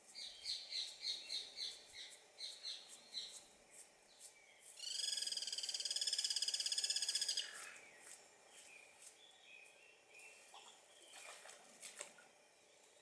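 Birds calling in the background: a run of repeated high notes, about three a second, then a loud buzzy, pulsing call lasting about two and a half seconds. A couple of short crackles come near the end.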